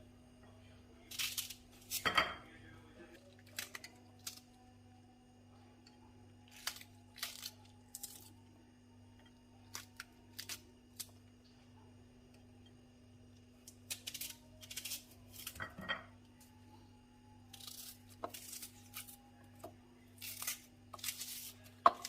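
Scattered short rustles and scrapes with a few sharper knocks and clinks as household items are handled, over a steady low hum.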